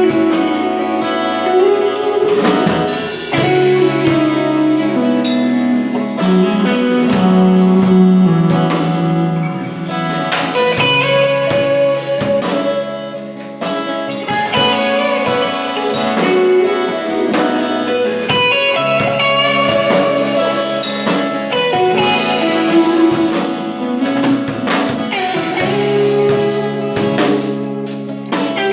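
Guitar played through a Boss GT-100 multi-effects processor into amplifiers, a blues-style passage of sustained notes and chords.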